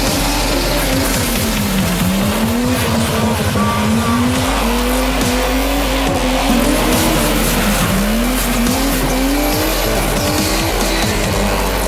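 Nissan 240SX engine revving hard, its pitch falling and climbing back several times as the throttle is lifted and reapplied, with tyres sliding, under a music track.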